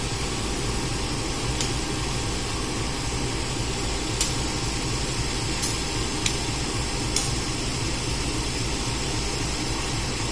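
Steady rumbling noise of a train at the station, with a few faint sharp clicks at uneven intervals.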